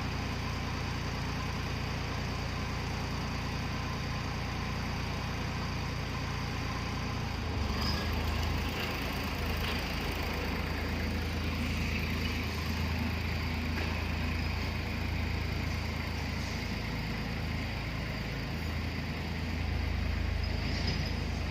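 Tractor engine running steadily while pulling a land leveler across the field. Its low hum grows a little louder about a third of the way in and again near the end.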